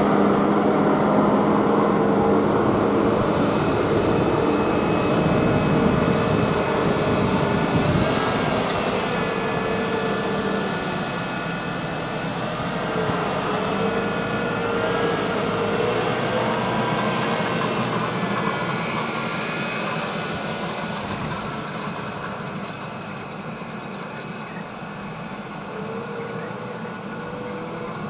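Tractor engine running steadily, its pitch wavering slightly, growing gradually fainter as the tractor moves away.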